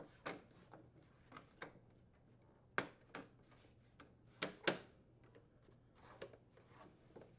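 Plastic inner door trim of a microwave oven door being pressed and snapped into place: a series of sharp plastic clicks and snaps, loudest as two close pairs about three and four and a half seconds in.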